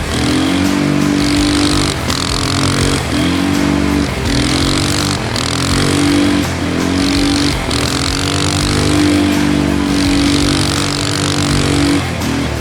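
Polaris Sportsman 335 ATV's single-cylinder four-stroke engine revving up and easing off again and again, its pitch climbing and dropping every second or two, as the quad is spun in donuts.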